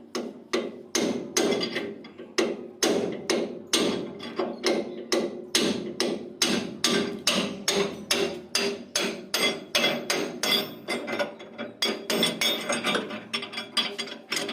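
Steady hammering on metal, about three blows a second with a ringing note after each, as a part of the combine is knocked loose during repair.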